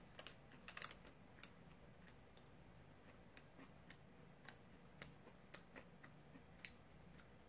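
Faint, irregular crisp crackles of chewing a chocolate-coated puff pastry bar: a small cluster about a second in, then single crackles every half second or so.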